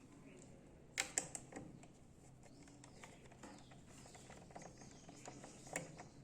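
Screwdriver working the screws out of a monitor's back cover: a sharp click about a second in, a couple more right after, scattered light ticks, and another click near the end.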